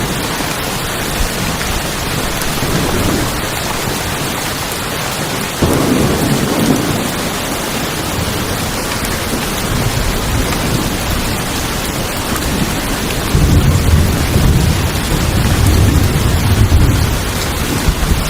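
Steady rain falling on a tin roof, with thunder rumbling: one roll starting about six seconds in and a longer, louder one from about 13 to 17 seconds.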